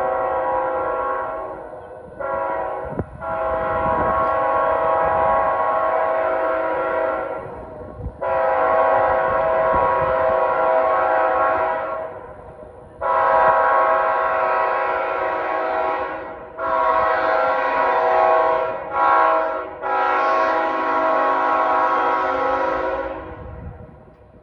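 Diesel locomotive's multi-note air horn sounding a series of long blasts with a couple of short ones between, the long-long-short-long pattern of a grade-crossing warning, with a faint rumble of the train underneath.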